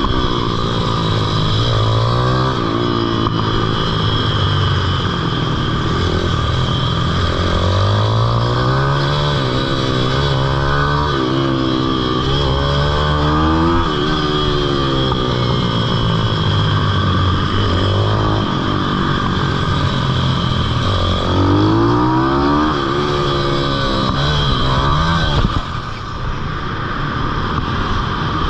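Pitbike engine revving hard, its pitch climbing and falling again and again as the bike accelerates and slows around a kart track.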